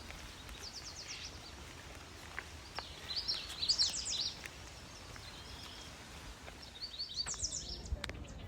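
Small birds calling: three bursts of rapid, high chattering notes, the first about half a second in, the loudest around three to four seconds in, and another near the seven-second mark, over faint outdoor background noise.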